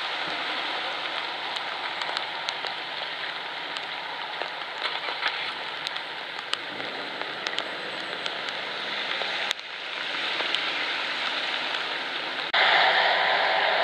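Steady rain falling, an even hiss with many single drops ticking close by; it grows louder near the end.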